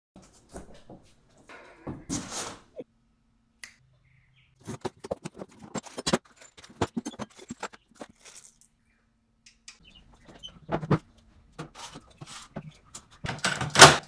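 Scattered sharp clicks and knocks, with a brief rustling burst about two seconds in, building near the end into a quick run of loud knocks.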